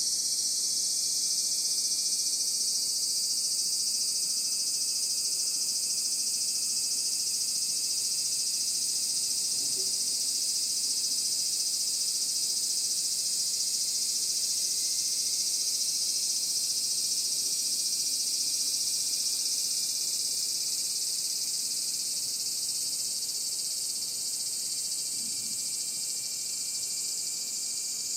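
A dense, steady, high-pitched chorus of insects droning continuously, easing off slightly in the last third.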